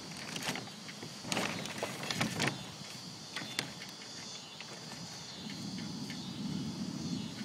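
Irregular taps and clicks of storm rain and gusts striking a greenhouse, over a steady high chirring of insects. A low rumble of distant thunder swells near the end.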